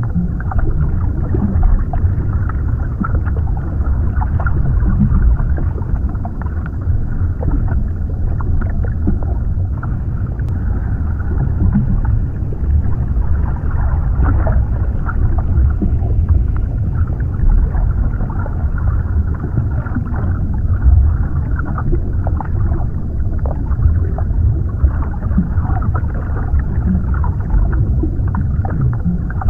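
Underwater ambience: a steady, muffled rumble of water, all low and dull with nothing bright above it, flecked with small faint ticks.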